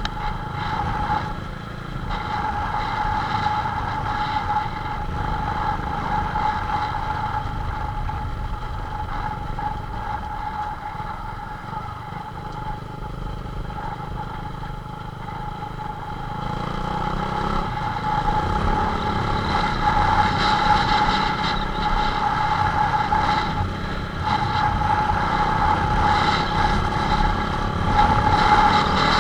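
Motorcycle engine running steadily, with a constant high tone over the engine noise. It grows louder a little past the halfway point.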